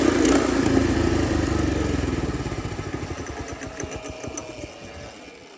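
Mini bike's Predator 212 single-cylinder four-stroke engine running, then fading steadily over a few seconds, its firing pulses growing weaker until it is almost gone: the engine dies.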